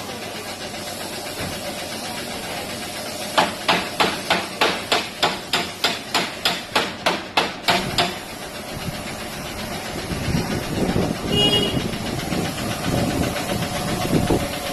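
Hammer blows in a quick, even series, about three a second, lasting several seconds. Afterwards a low rumble and a short high beep.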